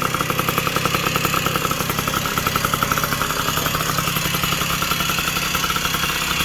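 Two-stroke engine of a Puch moped with a 70cc cylinder kit idling steadily with an even, rapid pulsing, running on its first start-up.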